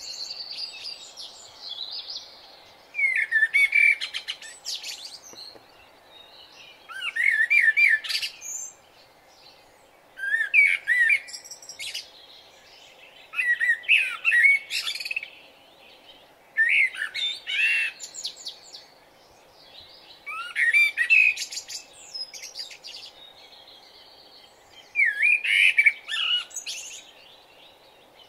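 A songbird singing short, varied, chirping phrases, about one every three to four seconds with pauses between, over a faint steady background hum.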